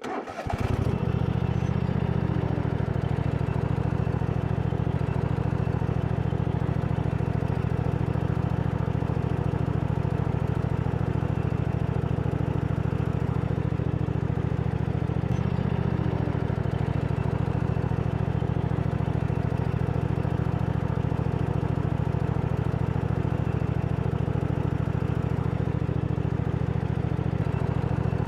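Greenworks 40V cordless leaf blower spinning up about half a second in, then running steadily at full speed, blowing the remaining bees out of a honey super.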